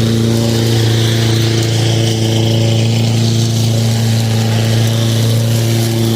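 Lawn mower running steadily at a constant speed, a loud, even hum that does not change.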